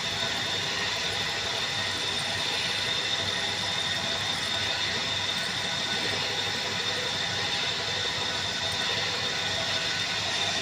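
Drilling machine with a PCD drill running steadily while machining a flange: dense mechanical noise under a steady high whine.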